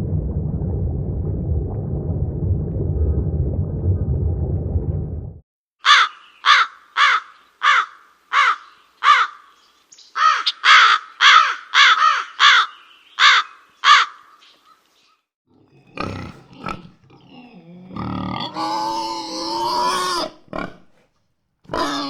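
A run of wild animal sounds. A low rumble lasts about five seconds, then about a dozen short, harsh calls come in two runs, and other calls follow near the end.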